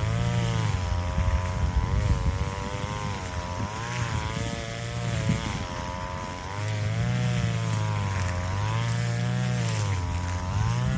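Grass-cutting brush cutter's small engine running at full throttle, its pitch dipping and recovering every second or two as the blade takes the load of cutting grass.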